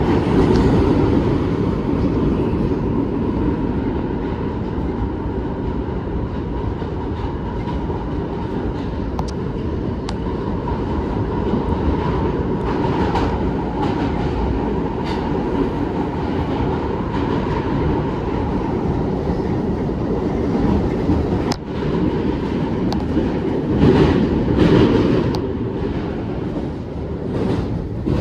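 New York City subway train running at speed through a tunnel, heard from inside the car: a steady loud rumble of wheels on rail with scattered sharp clicks from rail joints and a faint steady whine. The rumble swells louder near the end.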